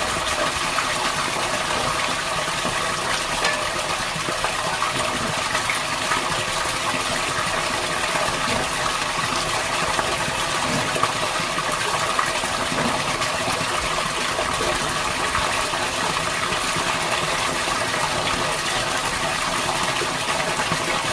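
Water gushing steadily as a newly installed outdoor sump pump pumps groundwater out of the pit, with a steady machine hum underneath.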